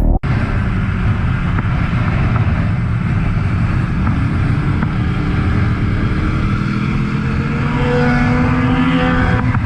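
Motorcycle engine running under way, heard as a steady rough rumble with wind noise. Its note climbs near the end as the engine revs up.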